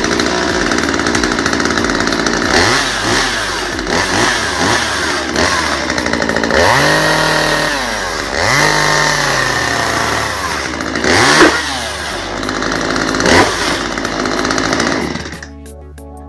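Stihl chainsaw running and revved up and down several times, its pitch dipping and climbing again. It cuts off near the end.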